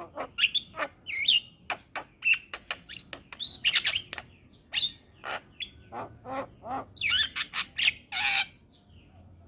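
Javan myna (jalak kebo) singing a fast, varied string of sharp whistled notes, chirps and harsh squawks, which stops near the end.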